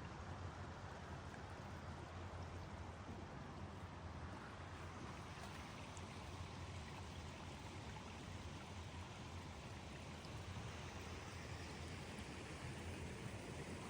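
Steady rain falling, an even hiss with no breaks, mixed with running water.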